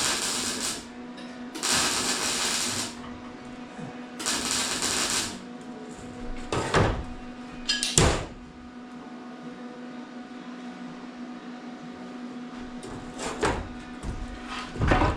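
Hand-tool work on exhaust pipe: three long rasping strokes, each about a second, then a few sharp knocks, over a faint steady hum.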